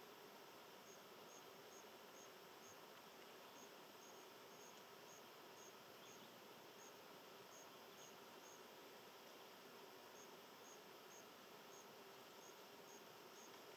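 Faint insect chirping: short high chirps at about two a second, pausing briefly a couple of times, over a low steady hiss of background.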